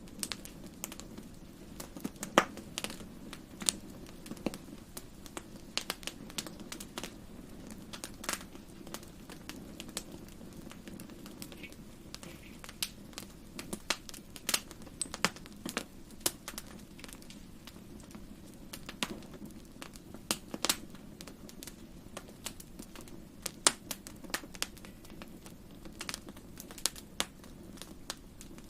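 Wood fire crackling in a fireplace: irregular sharp snaps and pops, several a second at times, over a steady low rumble.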